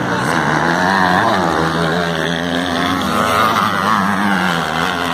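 Several 250 and 450 cc dirt bikes racing, their engines revving up and falling back over and over, with more than one engine pitch heard at once.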